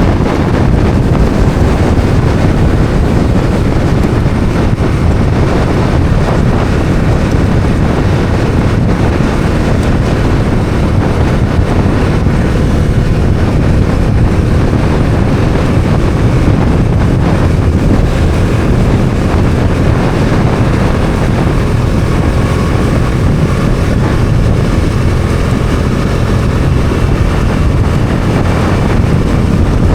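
Bajaj Dominar 400 motorcycle being ridden at steady speed, its single-cylinder engine running under heavy wind noise on the microphone.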